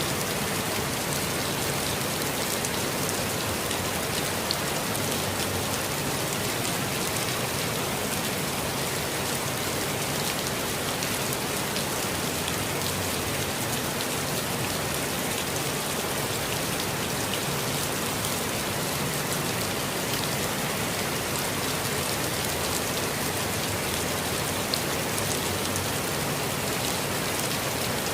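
Steady rainfall pattering on foliage and ground, an even hiss with occasional distinct drop ticks and no let-up.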